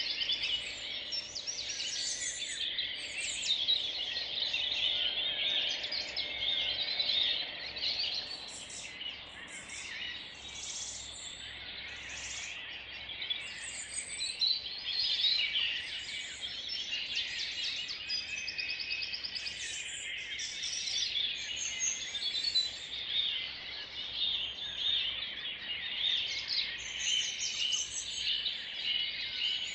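Dawn chorus of many songbirds singing at once, their songs and calls overlapping without a break.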